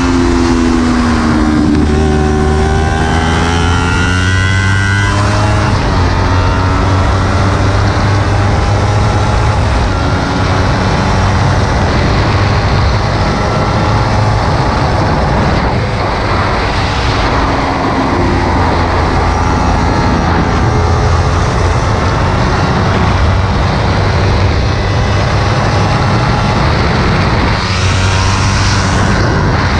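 Kawasaki Ninja 300's parallel-twin engine running hard on the track, its note rising and falling through throttle and gear changes, with heavy wind noise over the bike.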